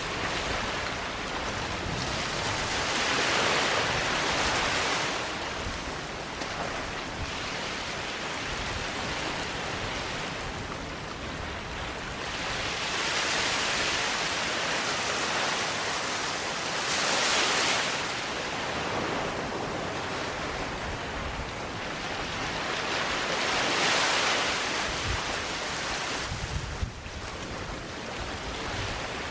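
Small waves breaking and washing up a sandy beach, each one a swelling hiss that fades again, about every four to seven seconds, with some wind rumble on the microphone.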